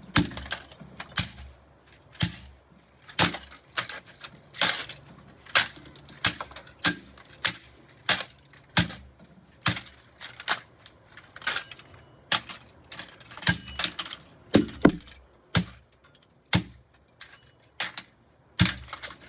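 A plastic GPX laser tag toy gun, burnt and melted from the microwave, being smashed with repeated sharp blows, a little faster than one a second, with cracking and splintering plastic.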